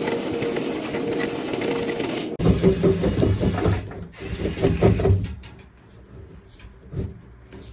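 A vacuum running with a steady hiss and a thin whine cuts off abruptly about two and a half seconds in. Then come a few seconds of irregular rattling and scraping, which die down to scattered clicks near the end.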